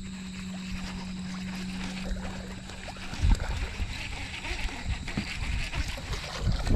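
A steady low hum, from the boat's electric trolling motor, stops about three seconds in. Then comes a heavy thump and irregular knocking and rustling in the boat.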